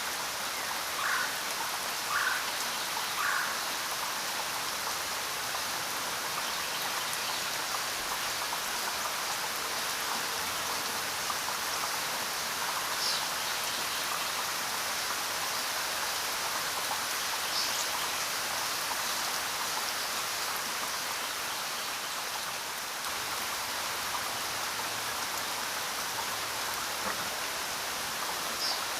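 Steady rainfall: an even hiss of rain falling on the ground and foliage. Three short chirps come in the first few seconds, and a few brief, faint high chirps come later.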